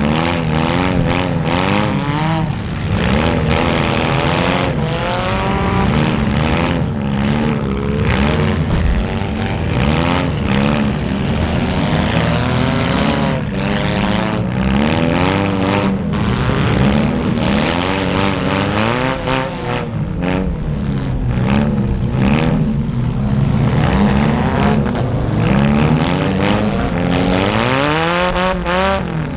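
Several small-car engines revving up and down at once, loud and overlapping, with repeated sharp bangs of demolition derby cars colliding.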